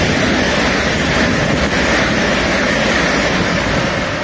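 Electric multiple-unit train passing through the station at speed: a loud rush of wheels and air with a steady high whine, easing slightly near the end as it runs away.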